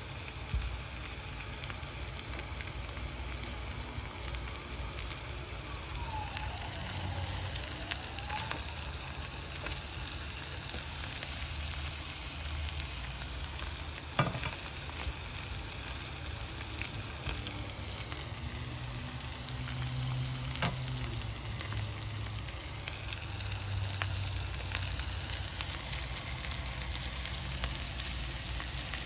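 Whole prawns frying in garlic butter in a pan: a steady sizzle, with a few sharp clicks along the way.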